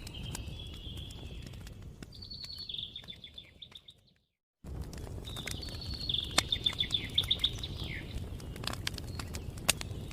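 A songbird singing: high whistled notes running into rapid trilled phrases, heard twice, over a steady low background rumble with scattered faint clicks. The sound fades out to a short gap of silence about four seconds in, then cuts straight back in.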